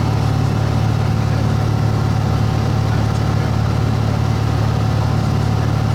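Airplane engine and propeller droning steadily, heard from inside the cabin.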